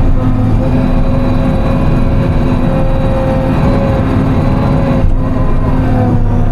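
Diesel engine of a Timberjack 608 tracked harvester running steadily at working speed, its pitch dipping briefly about five seconds in as the hydraulics take load.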